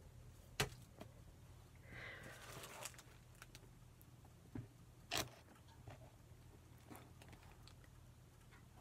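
Quiet handling of postage stamps and paper at a worktable: a brief rustle and a few light ticks, with two sharper taps, the louder one about five seconds in, over a faint steady hum.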